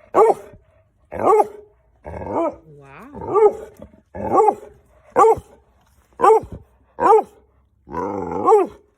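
A dog giving a series of short pitched barks, about nine of them at roughly one a second, each call rising and falling in pitch.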